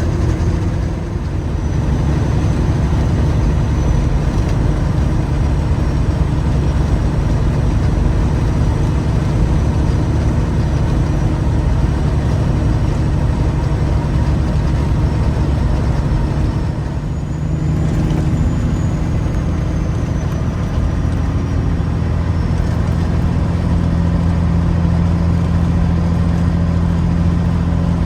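A Peterbilt 359 semi's diesel engine running steadily while the empty truck drives on, with two brief dips in level, about a second in and again past the middle.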